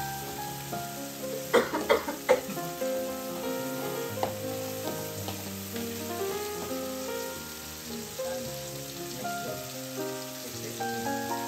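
Chopped onions, tomatoes and green chillies sizzling in oil in a metal pot, stirred with a slotted steel spatula. The spatula scrapes and clacks against the pot a few times about two seconds in. Background music plays throughout.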